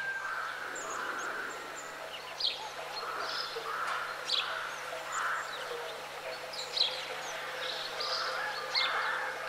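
Birds chirping and calling outdoors: many short, high calls scattered through, with softer warbling calls lower down, over a faint steady low hum.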